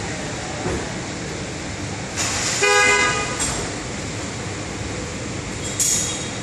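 A vehicle horn gives one short honk about two and a half seconds in, over a steady background of traffic noise. A short hiss follows near the end.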